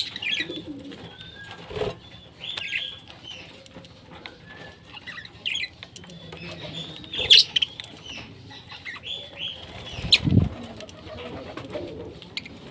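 Pet parrots making short chirping calls, many of them falling in pitch, with scattered clicks and a dull thump about ten seconds in.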